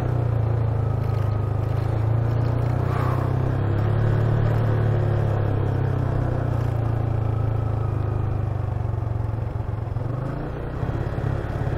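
Motorcycle engine running steadily at low revs while riding, heard from on the bike. Its note sags briefly about ten seconds in and then picks up again.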